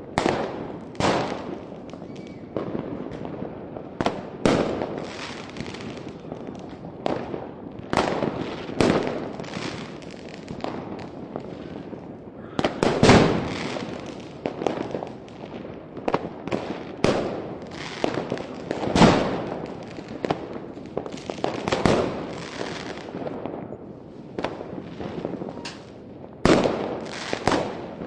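A fireworks display: aerial shells bursting one after another every second or two, each bang trailing off in a crackling, echoing tail. The loudest burst comes about halfway through.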